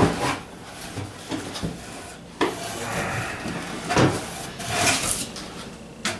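A package being opened and its contents handled: scraping and rustling of the box and packing, with a few sharp knocks, the clearest about two and a half and four seconds in.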